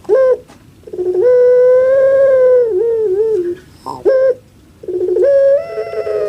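Puter pelung dove (Streptopelia risoria) calling: a short note, then a long drawn-out held call that wavers and drops at its end, and the same short-then-long pattern again.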